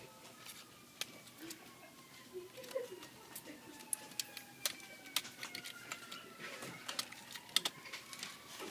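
Light scattered clicks and taps of small cables and parts being handled inside an opened laptop, with a faint, slowly falling whine underneath.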